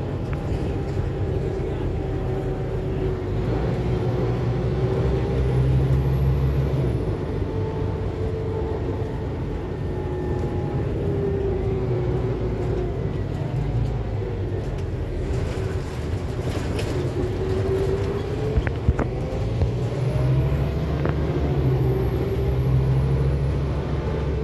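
Scania K280UB4 city bus's 9-litre five-cylinder diesel engine and drivetrain heard from on board, its pitch rising and falling several times as the bus pulls away, gathers speed and eases off. A few sharp knocks or rattles come about three-quarters of the way through.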